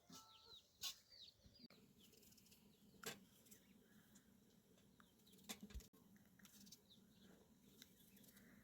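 Near silence with faint bird chirps: a cluster of short, falling chirps in the first couple of seconds, then a few scattered faint clicks and taps.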